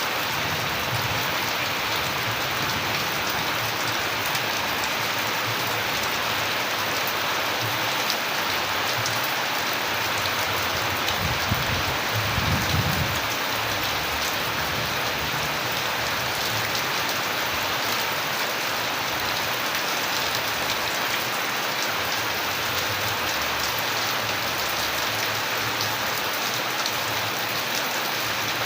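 Steady heavy rain falling, a constant wash with many individual drops ticking close by. A brief low rumble swells up about halfway through.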